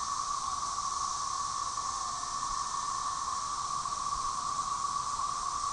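Chorus of Brood XIX periodical cicadas (Magicicada tredecim), a dense, steady high drone made of many males singing unsynchronized, each on its own.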